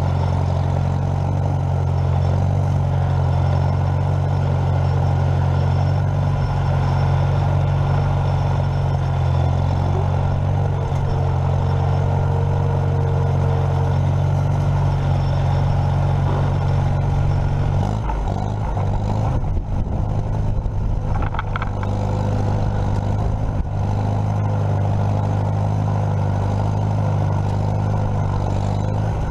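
A vehicle engine running at a steady speed. About two-thirds of the way through its note shifts and wavers for a few seconds, then settles back to a steady run.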